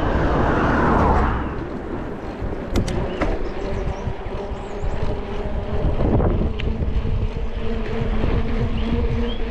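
Wind rumbling on the microphone while riding a bike, with a few sharp clicks and, from about halfway, a steady low hum.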